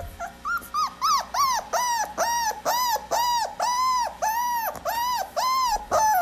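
A small dog giving a rapid run of about fourteen high-pitched yelps, each rising and falling in pitch, at roughly two to three a second.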